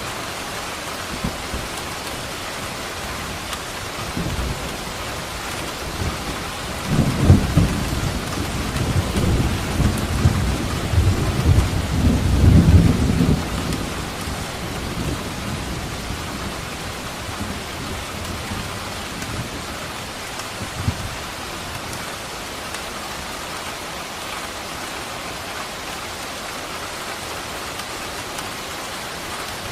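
Steady rain falling, with a roll of thunder that builds a few seconds in, rumbles loudest for about six seconds, then fades away; a short low crack of thunder comes about two-thirds of the way through.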